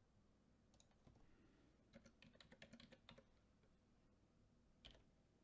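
Faint typing on a computer keyboard: a quick run of keystrokes about two seconds in, with a few scattered clicks before and after, over otherwise near-silent room tone.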